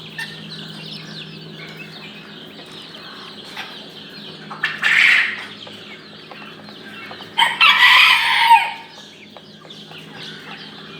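Caged chicks, chickens and quail calling: a constant chorus of high peeping, with two louder calls standing out about five and eight seconds in.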